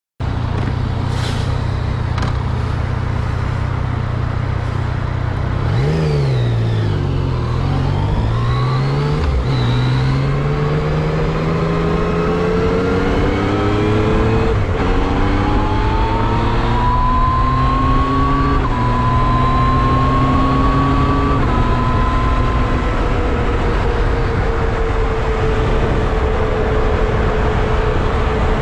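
Yamaha MT-09 SP's inline-three engine heard on a GoPro's built-in microphone while riding, over a haze of wind rush. The engine pitch dips and rises about six seconds in, then climbs through several upshifts, each marked by a sudden drop in pitch, before settling into a steady cruise.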